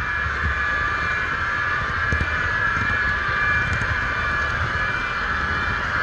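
HO-scale model train running, heard from a camera riding on it: a steady electric motor whine over a low rumble with irregular knocks from the wheels on the track.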